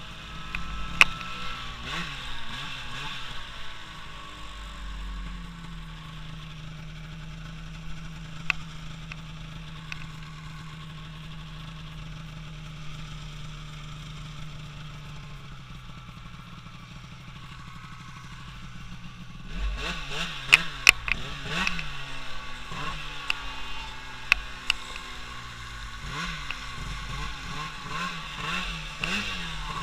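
Snowmobile engine revving up and down, then holding a steady pitch as it runs on and fades. About twenty seconds in it comes back louder, revving again and again, with a few sharp knocks.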